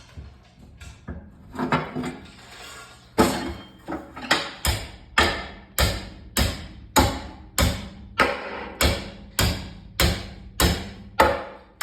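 Hammer blows struck at a steady pace, about one and a half a second, in the middle of removing a mixer gearbox; a few lighter knocks come first.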